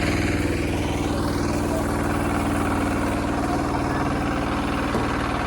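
Hand tractor engine running steadily at an even speed.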